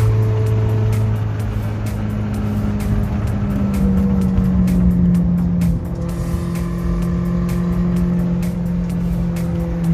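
A Toyota 3SZ 1.5-litre engine running in a converted VW bus, with music playing alongside; the pitch steps to a new level a few times rather than gliding.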